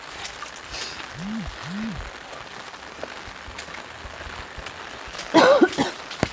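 Steady hiss of rain falling on a flooded street. About a second in come two short low calls that rise and fall in pitch, and near the end a brief loud pitched call stands out above the rain.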